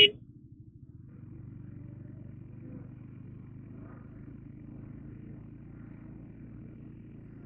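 Honda CBR150R's single-cylinder four-stroke engine running steadily while riding. A loud horn beep cuts off right at the start.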